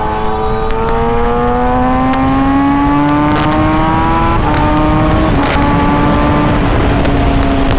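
Kawasaki ZX-10R's inline-four engine pulling under acceleration, its pitch climbing steadily for about four seconds before dropping at a shift and then holding and easing off. Wind rumbles on the microphone throughout.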